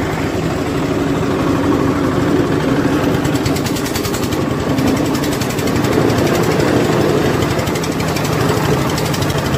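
Engine-driven ice-block crusher running loud and steady, a dense mechanical racket with a fast rattle as blocks of ice are ground into fine ice.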